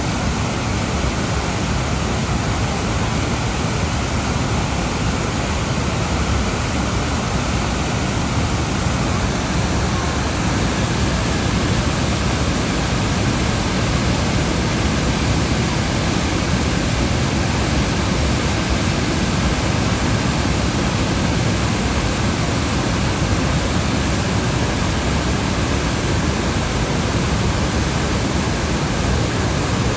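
Athabasca Falls, a large waterfall on the Athabasca River, pouring with a steady, unbroken rushing noise.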